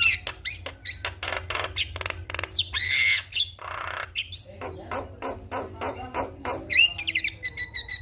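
Javan myna singing: a rapid, varied run of sharp clicks and short whistled notes, broken about three seconds in by two harsh, rasping squawks.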